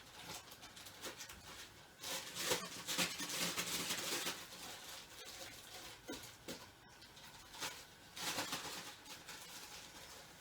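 Plastic zip-lock bag rustled and shaken in two bouts, a longer one and then a shorter one, with light clicks and handling noise between, as chicken thighs are coated in seasoned flour.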